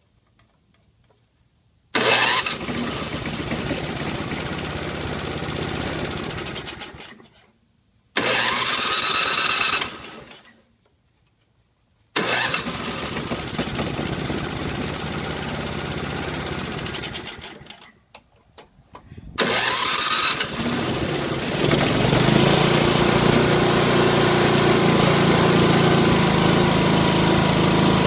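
Stone-cold small engine being started: it catches and runs for a few seconds, then dies, twice, then after another short attempt it fires up about 20 seconds in and keeps running steadily.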